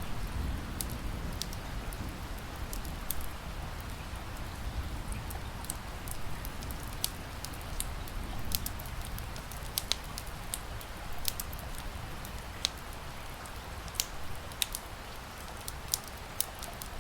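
Wood fire crackling with sharp, irregular pops over a steady hiss of rain and a low rumble.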